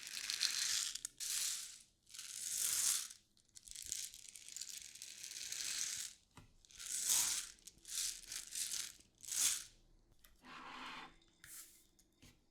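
Rustling and crinkling of packing material being handled by hand, in a string of hissy swishes each about a second long with short gaps between them.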